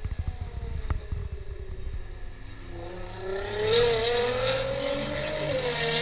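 A Nissan GT-R and a Mitsubishi Lancer Evolution launching from a standing start: rapid stuttering pops from the engines held on the launch line in the first second, then an engine note rising steadily in pitch as they accelerate hard away. The pitch drops once near the end at an upshift, then climbs again.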